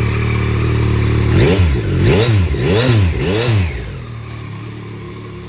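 Yamaha MT-09 SP's inline three-cylinder engine on its standard, stock exhaust: idling, then blipped four times in quick succession, each rev rising and falling, before settling back to a quieter idle.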